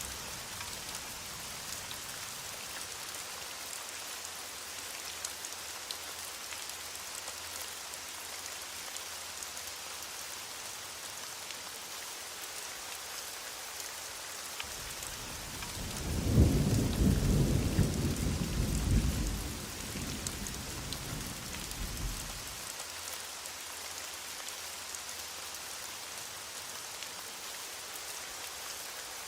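Heavy rain falling with a steady hiss. About halfway through, a low rumble of thunder swells up, holds for a few seconds and fades away.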